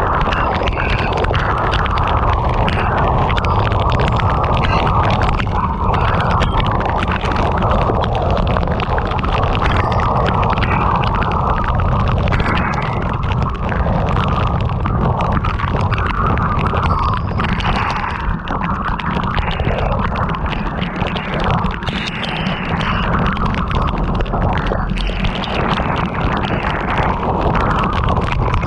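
Heavy rain beating on a moving car, a dense steady rush of noise over a low rumble of wind and road.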